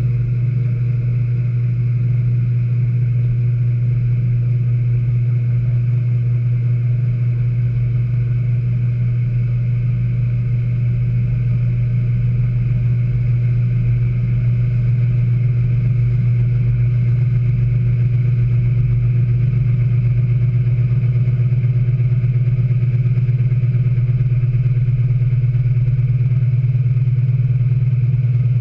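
Speed Queen 9 Series washing machine in its final spin: the motor and spinning tub give a loud, steady hum that holds one pitch, swelling slightly in the first couple of seconds.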